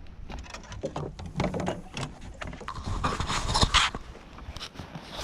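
Irregular clicks, knocks and scrapes as a hooked fish is landed with a net on a boat, with louder noisy bursts about three seconds in.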